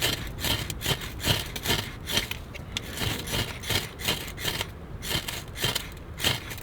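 Ferro rod being struck again and again into birch bark tinder: a steady run of short, sharp scrapes, about two to three a second, throwing sparks to light a fire.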